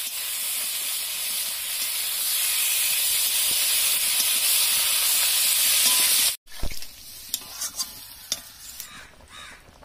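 Boiled potato chunks, peas and tomato sizzling in hot oil in a kadai as they are stir-fried with a spatula, a steady frying hiss: the kashano stage of cooking aloo dum before the water goes in. The sizzle cuts off suddenly about six seconds in, leaving a quieter stretch with a few light clicks.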